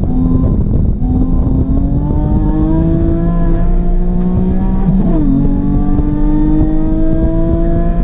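Race car engine heard from on board under hard acceleration, its pitch climbing steadily, with a quick drop at an upshift about five seconds in before it climbs again; heavy road and wind rumble underneath.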